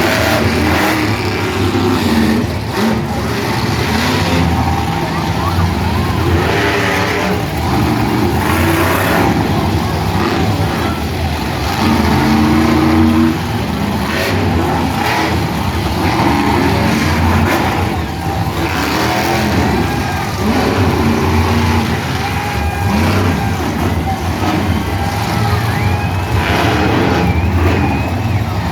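Monster truck engines running and revving as the trucks drive in, a steady low rumble, with crowd voices mixed in.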